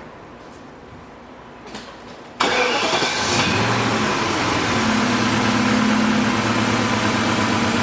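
1998 BMW 540i's 4.4-litre V8 starting: it fires about two seconds in, the revs flare and fall away over a second or two, then it settles into a steady idle. The engine carries a cylinder 7 misfire, traced to an intermittent contact at the injector 7 connector.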